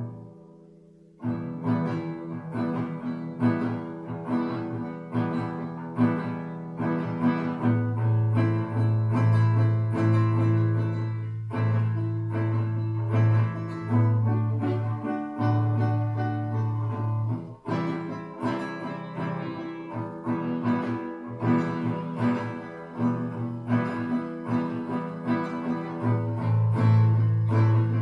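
Guitar being played: chords in a steady rhythm over strong sustained low notes, starting about a second in.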